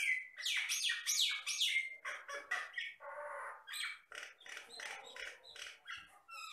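Jalak batam, a myna, singing a fast, varied run of whistles, chirps and harsh squawky notes, with a rasping note about three seconds in.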